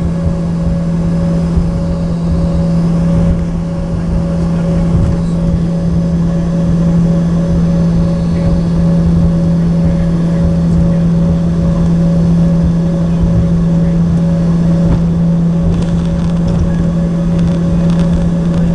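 Cabin noise of an Embraer ERJ-145 regional jet: a loud, steady drone with a constant low hum and a rough rumble underneath.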